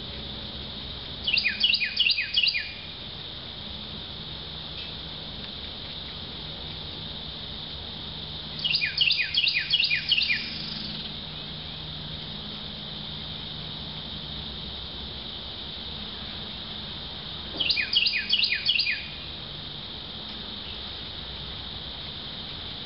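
A songbird singing three short phrases, each a quick run of six or seven downward-slurred notes, spaced about eight seconds apart, over a steady high drone of insects.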